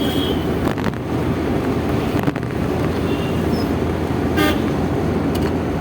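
Steady road and engine rumble inside a moving Maruti Eeco van, with a few short horn toots, about three and four and a half seconds in.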